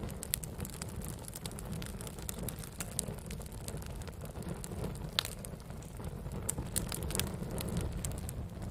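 Campfire of burning wood crackling: a steady low rumble with frequent irregular sharp pops and snaps, the loudest pop about five seconds in.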